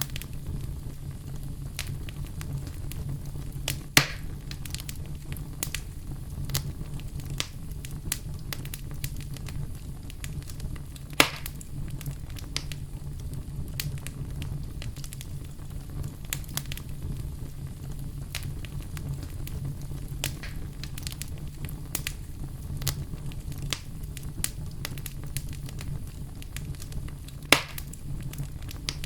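Campfire burning with a steady low rumble and a stream of small crackles, and three sharp pops from the burning wood about 4, 11 and 27 seconds in.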